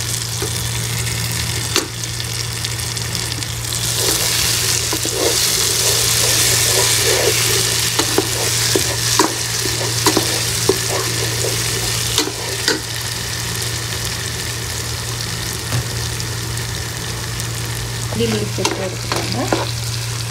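Onion-tomato masala sizzling in hot oil in a non-stick pan while a spatula stirs and scrapes through it, with short knocks of the spatula against the pan. The sizzle swells for a few seconds in the middle. The knocks come thickest in the middle and again near the end.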